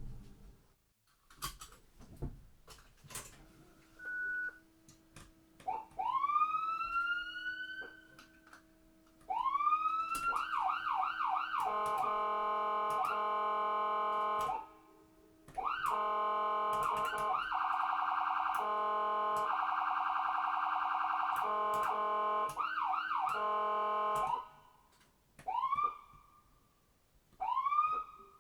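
Electronic siren sounding in bursts: several upward-sweeping whoops, then long stretches of steady and rapidly warbling tones, ending with two more short rising whoops.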